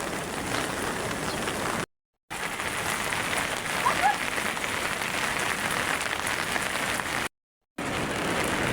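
Heavy rain falling steadily, a dense even hiss of rain. The sound cuts out completely for a moment twice, about two seconds in and again near the end.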